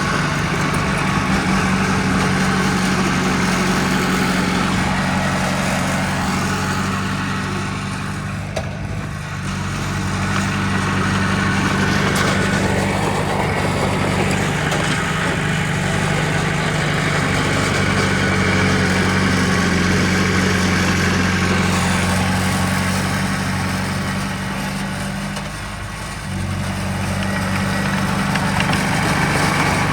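Heavy diesel engine of earth-moving machinery running steadily, its pitch and load shifting a little, with brief dips in level about a third of the way in and again near the end.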